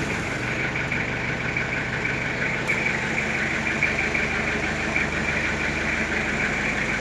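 An engine running steadily at idle, with a continuous, dense high-pitched chattering over it.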